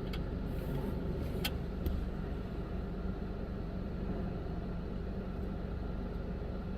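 Steady low rumble of a car idling, with a couple of light clicks about a second and a half and two seconds in.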